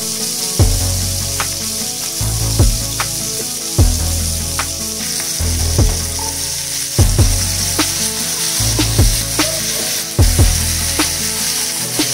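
Chicken balls shallow-frying in hot oil in a pan, a steady sizzle, under background music with a regular drum beat.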